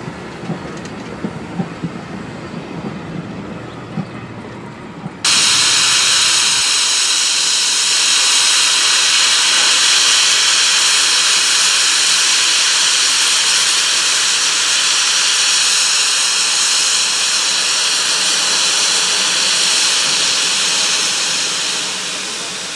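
Railway wheels rolling with scattered clicks, then a steam locomotive releasing steam: a loud, steady hiss that starts suddenly about five seconds in and eases a little near the end.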